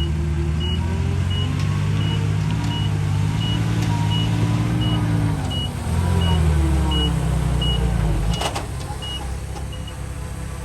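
Heavy diesel earthmoving machinery running under varying load, its pitch rising and falling, while a reversing alarm beeps steadily about once every 0.7 seconds. About eight and a half seconds in there is a short burst of noise, after which the engine settles lower and the beeping stops.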